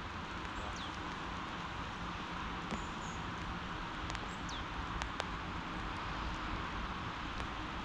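Steady hiss of light drizzle falling. A bird gives two short calls that slide down in pitch, about a second in and about four and a half seconds in, and a few sharp clicks come around the middle.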